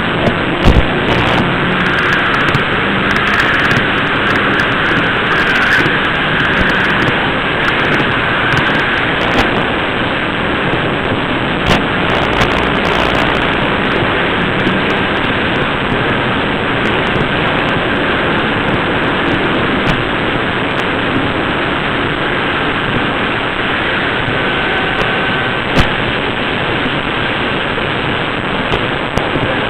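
N scale model train running on its track, picked up at close range by a camera riding on the train: a loud steady running noise with a few sharp clicks.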